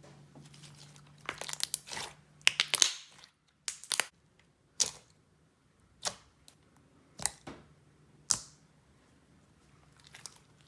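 Clear slime with fishbowl beads being stretched and squished by hand. For the first three seconds or so there is a run of crackling crunches, then single sharp pops about once a second.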